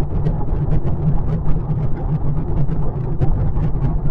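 Steady road and tyre noise inside a 2025 Kia K4's cabin while it cruises at highway speed, a dense low rumble with scattered faint ticks.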